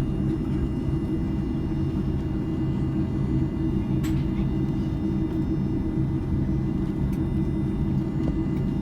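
Cabin hum inside an Airbus A310-304 taxiing, its General Electric CF6-80C2 turbofans at low taxi thrust: a steady low rumble with a few held low tones. A single faint click about four seconds in.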